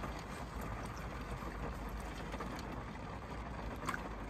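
Steady low rumble inside a car's cabin with the engine idling, and a faint click about four seconds in.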